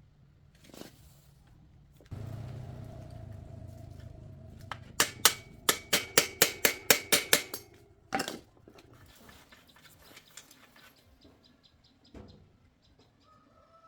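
A fast run of about a dozen sharp metallic knocks, about five a second, each ringing briefly, over a low hum that starts suddenly a couple of seconds in. One more knock follows, then only faint clicks.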